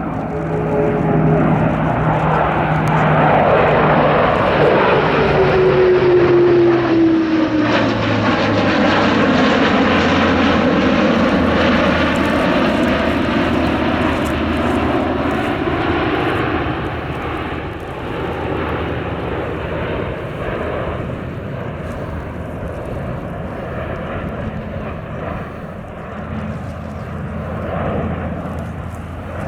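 Airbus A400M's four turboprop engines and propellers passing by during a flying display: a loud propeller drone that falls in pitch as the aircraft goes past in the first several seconds, then carries on steadier and a little quieter as it moves away.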